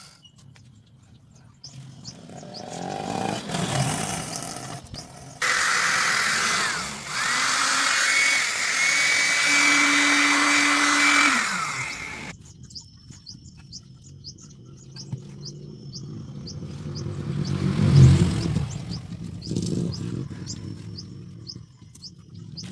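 Sewing-machine motor fitted as a drill, running at speed for several seconds with a whine that shifts in pitch, then winding down as it is switched off. Afterwards small birds chirp in a quick, regular series, with another shorter burst of noise near the end.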